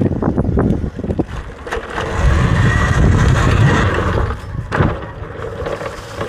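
Riding noise from a Talaria electric dirt bike: wind rushing over the microphone, swelling for a couple of seconds in the middle, with knocks and rattles from the bike rolling over rough ground.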